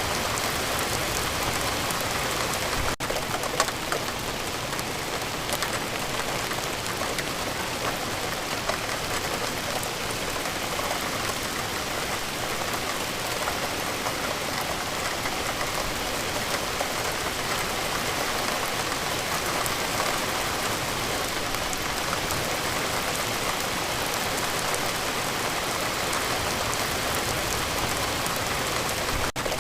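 Steady, heavy rainfall: a dense hiss of rain with a fine patter of drops hitting a surface. The sound dips very briefly about three seconds in and again near the end.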